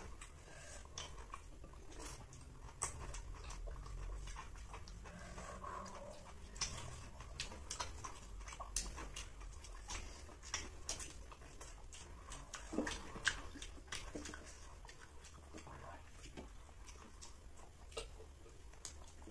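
Close-up eating sounds of two people eating chicken biryani with their hands: irregular wet clicks of chewing and lip smacking, over a low steady hum.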